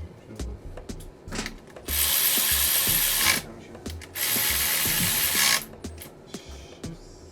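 Ratchet wrench being worked in two quick runs of about a second and a half each, separated by a short pause.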